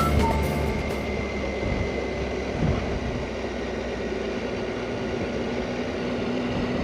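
Motorcycle on the move, its engine running steadily under a broad rush of wind and road noise.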